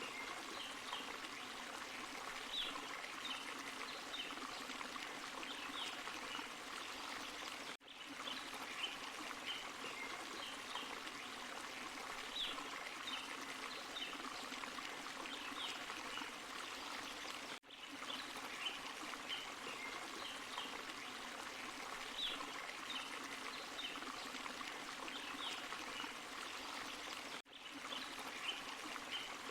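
Small forest waterfall and stream rushing and splashing steadily over rocks, with scattered short high chirps. The sound drops out for an instant about every ten seconds, where the recording loops.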